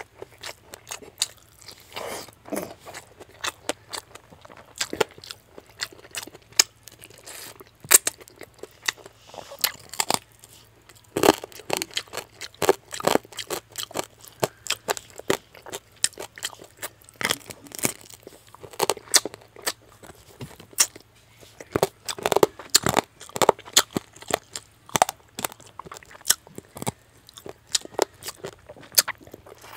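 Close-miked eating of fried fish head curry with rice by hand: irregular crunching and wet chewing with many sharp clicks, over a faint steady low hum.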